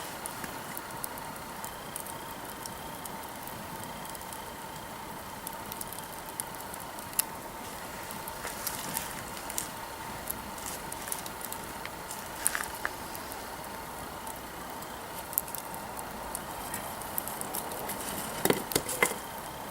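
Wood campfire burning, the logs crackling with irregular sharp pops over a steady low hiss, and a quick run of louder pops near the end.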